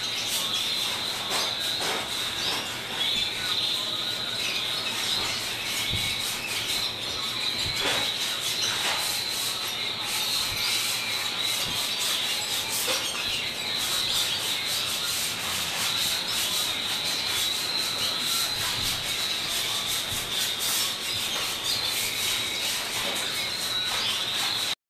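Canaries twittering and singing without a break, a dense, rapid, scratchy chatter over a steady high trill.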